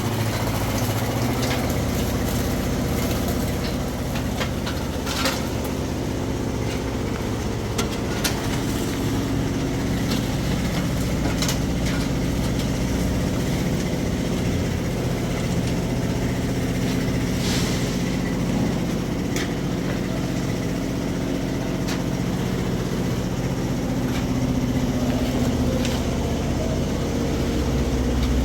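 A machine engine running steadily at a concrete pour, with scattered sharp knocks and clicks over it.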